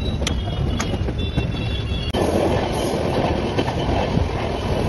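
Passenger train running: a steady low rumble with a few sharp wheel clicks over rail joints and a faint high-pitched squeal. About two seconds in the sound changes abruptly to a louder, denser rush as the train runs close alongside goods wagons on the next track.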